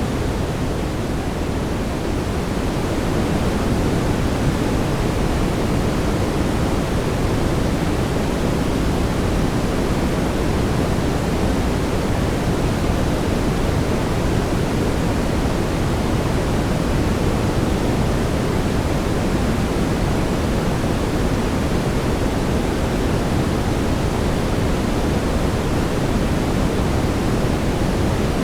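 Steady brown noise: an even, deep rushing hiss with its weight in the low end and little treble, unchanging throughout.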